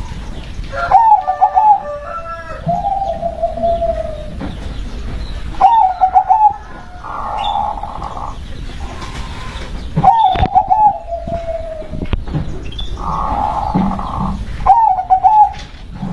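Zebra dove (perkutut) singing its cooing song: four repeated phrases, each a quick stuttering run of notes trailing off into a longer falling coo, about every four to five seconds.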